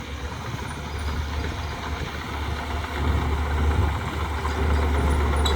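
Heavy diesel engine of earthmoving equipment running, a steady low drone that grows louder about three seconds in.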